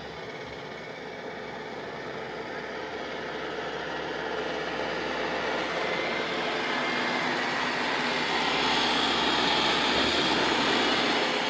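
Roomba robot vacuum running, its motor and brushes giving a steady whir that grows gradually louder, easing slightly near the end.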